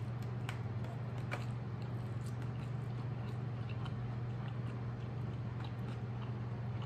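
A person biting into and chewing a mouthful of cheeseburger with the mouth closed: soft, scattered mouth clicks and smacks, a few sharper ones in the first second or so. A steady low hum runs underneath.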